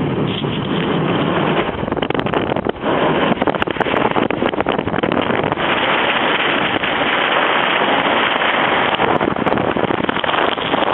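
Steady rushing road and wind noise of a car driving on a snow-covered highway in a blizzard. It grows louder and hissier about five and a half seconds in.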